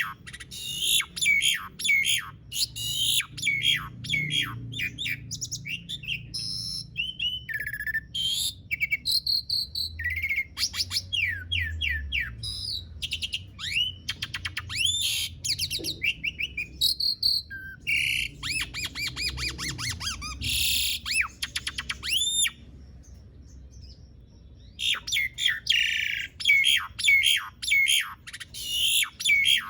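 Asian pied starling (jalak suren) singing a long, fast run of whistled and chattering notes, many of them sliding downward. The song breaks off for about two seconds about three-quarters of the way through, then resumes.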